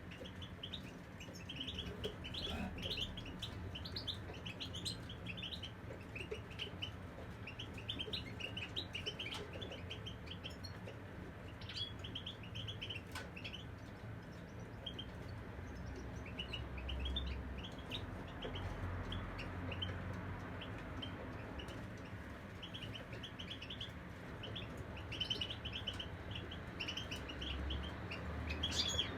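Caged European goldfinches twittering and singing in quick runs of short, high chirps, thinning out for a while midway.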